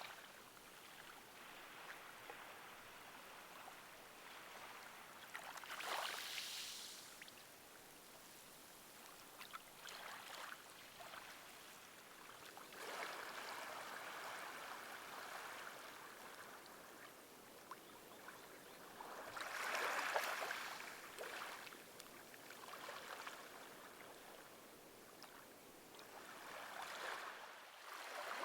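Gentle moving water washing softly, with two louder surges, about six seconds in and about twenty seconds in.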